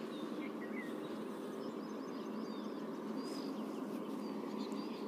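Steady background noise with faint, short bird chirps scattered through it.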